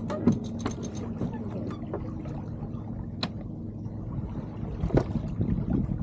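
Water washing along the hull of a small sailing keelboat under way, with a quick run of clicks near the start and a few sharp knocks from the boat's gear, the sharpest about three seconds in.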